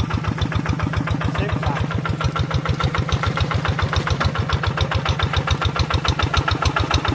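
Tractor engine running steadily, with a fast, even chugging of about nine beats a second.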